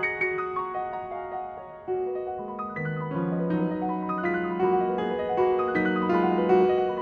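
Solo piano playing a slow melody over chords; it softens into a brief lull about two seconds in, then a new phrase enters with lower notes added.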